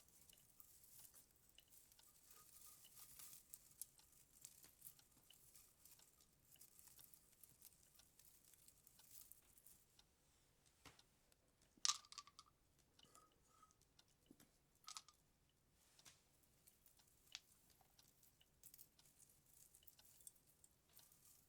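Christmas tree baubles being handled and hung: faint rustling and light clicks, with one sharper clink about halfway through that rings briefly.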